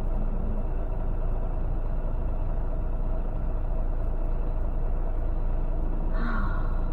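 Steady engine and road rumble inside a semi-truck's cab while cruising on the highway, with a brief higher sound about six seconds in.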